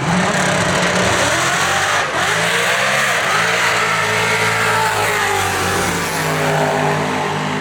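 A boosted Fox-body Mustang and another drag car making a full-throttle eighth-mile pass, engines running hard at high revs, their pitch climbing and falling as they run down the strip.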